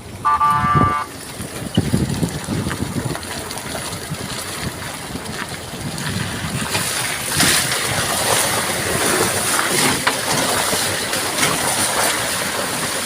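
A vehicle horn sounds once briefly near the start, followed by steady traffic noise of vehicles moving on a wet road in drizzle, with splashing from the tyres.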